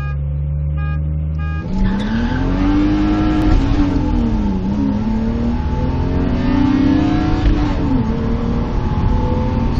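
BMW engine heard from inside the cabin, running low and steady, then about two seconds in accelerating hard. The engine note climbs, drops at gear changes around the middle and near the end, and climbs again.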